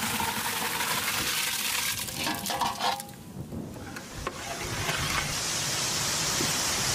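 Pieces of fish frying in hot oil and spiced masala in a pan: a steady sizzle with stirring clatter, dipping briefly about three seconds in and rising again.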